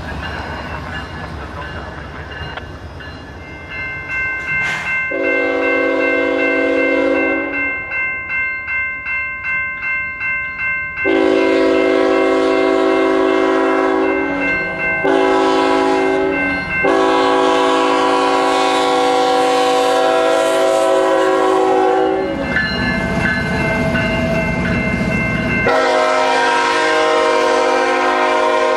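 Diesel locomotive's multi-chime air horn sounding a grade-crossing signal: long, long, short, long. A deep rumble follows, then another horn blast near the end.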